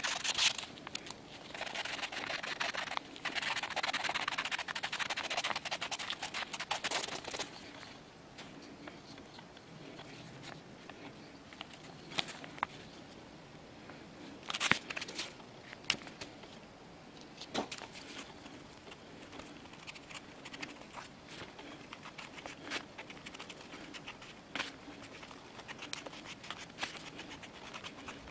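Scraping and rubbing on a bird's eye maple knife handle being shaped by hand, dense and steady for about the first seven seconds. After that come scattered sharp clicks and short light scrapes as the piece is handled.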